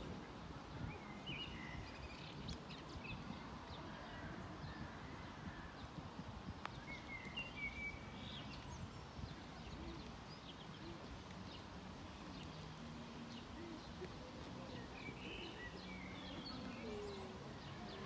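Faint outdoor ambience: small birds chirping now and then over a low, steady background noise.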